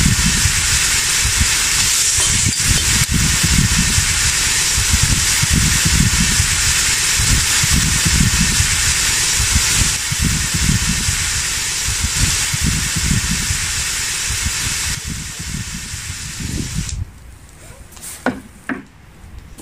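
Loud, steady sizzling hiss from hot oil and meat in a cast-iron kazan as cooked rice is stirred in with a skimmer, with a low uneven rumble underneath. It drops away about 17 seconds in, followed by a few light knocks as the lid is put on the pot.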